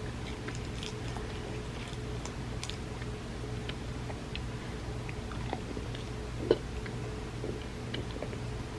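Close-miked eating of creamy rice pudding: soft wet chewing and mouth clicks scattered throughout, with one sharper click about six and a half seconds in. A steady low hum runs underneath.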